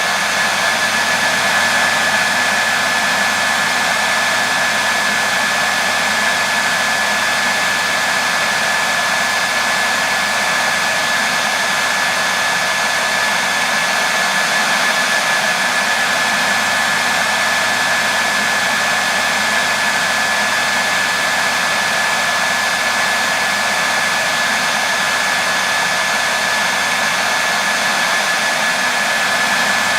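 Hair dryer running continuously with a steady airy rush and a constant high whine from the motor.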